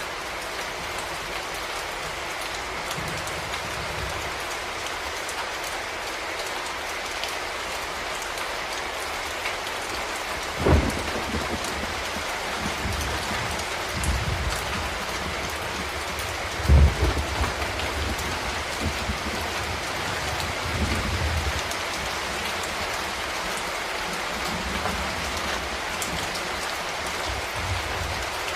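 Steady rain falling, with several low rolls of thunder; the loudest comes about 17 seconds in, and a sharp one comes near 11 seconds.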